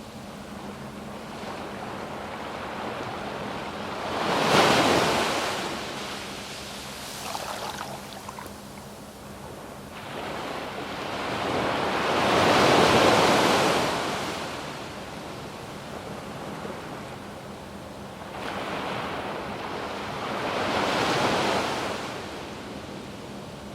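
Waves breaking and washing up a sandy beach, three surges in turn, the one about halfway through the longest. A faint low hum runs beneath.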